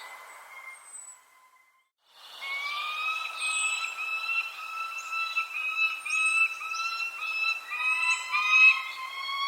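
Birds chirping, with short high descending chirps over a steady pitched whistling tone; the sound nearly cuts out about a second and a half in, then comes back louder.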